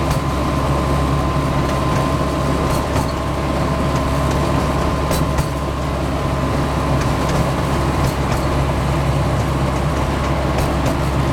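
Steady engine and running noise of a small open-car ride train, heard from a passenger car, with a low hum, a faint high whine in the first few seconds and a few scattered clicks.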